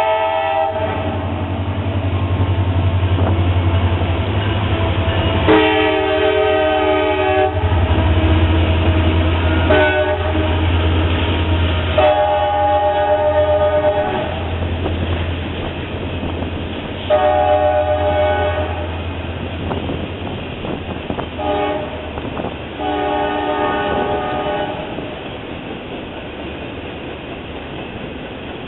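Diesel freight train passing close by, its locomotive horn sounding a series of long and short blasts over the deep drone of the engines. After about twenty seconds the horn and engine give way to the steady rolling of autorack cars on the rails.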